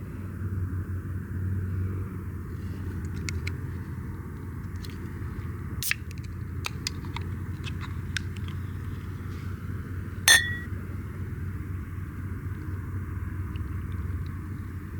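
Scattered small clicks and taps, then one sharp clink about ten seconds in that rings briefly, over a steady low rumble.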